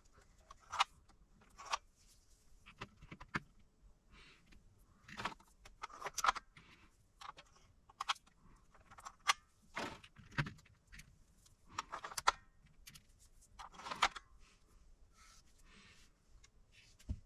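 Irregular clicks, taps and short clatters of small hard objects being handled and set down, with a duller knock about ten seconds in.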